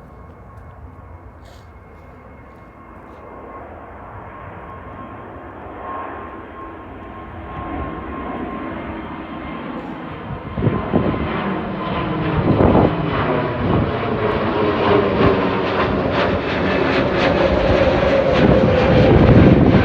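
An airliner's engines growing steadily louder as the aircraft approaches: a faint steady whine at first, then a broad roar that keeps building and is loudest near the end.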